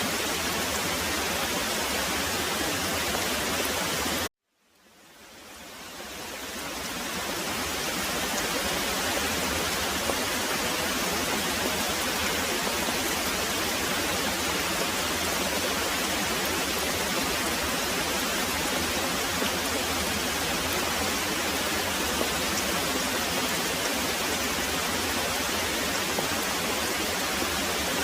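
Steady rush of very heavy rain. About four seconds in it cuts out suddenly to silence, then fades back in over the next few seconds.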